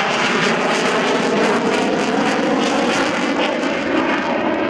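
Military jet aircraft flying past low during an airshow demonstration, its engines making a loud, steady rushing roar.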